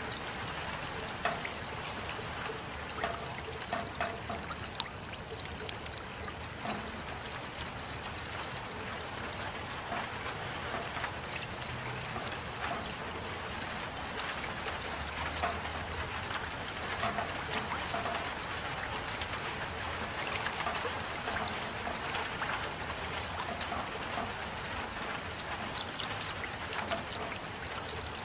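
Steady rain with many small drips and splashes, water trickling and running as it falls.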